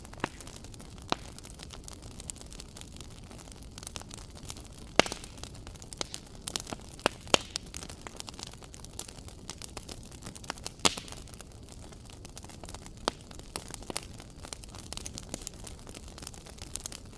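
Wood fire crackling in a fireplace: irregular sharp pops and snaps over a soft steady hiss, with the loudest pops about five, seven and eleven seconds in.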